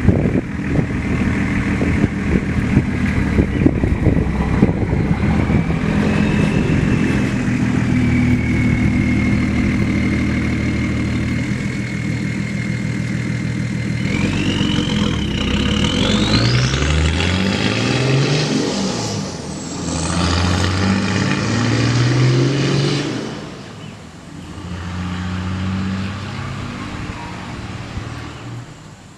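Nissan GU Patrol's 2.8-litre turbo-diesel straight-six running through its exhaust. It idles steadily, is revved up and back down twice in the second half with a high whistle climbing as the revs rise, then settles back to idle.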